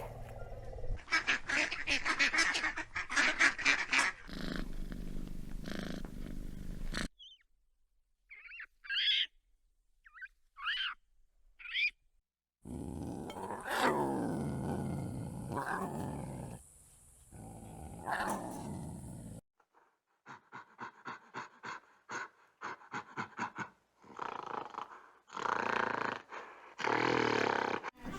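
A series of different animal calls cut one after another, among them a few short rising chirps and, later, a run of quick clicks.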